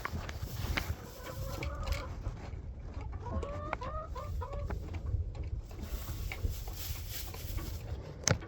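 Chickens clucking, with a cluster of short calls a few seconds in, amid scattered small knocks and one sharp knock near the end, over a steady low rumble.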